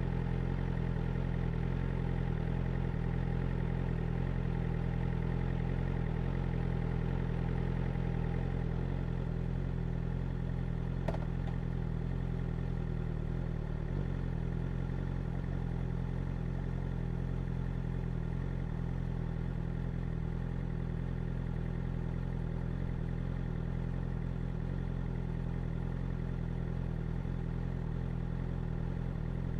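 BMW S1000R's inline-four engine running steadily at constant revs, its note unchanging throughout, with one short click about eleven seconds in.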